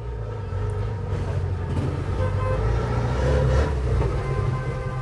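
A motor vehicle's engine running, a steady low hum with a few pitched tones above it, growing louder towards the middle and easing off near the end.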